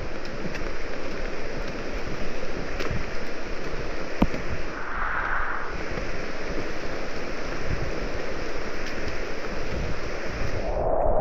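Steady heavy rain falling through the rainforest, a dense even hiss with scattered sharp taps of drops close by. The upper part of the hiss drops away suddenly near the end.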